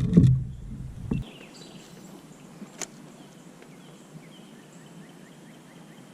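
Low rumbling and knocking handling noise for about the first second, cutting off suddenly, then a quiet outdoor background with faint bird chirps and a single sharp click a little under three seconds in.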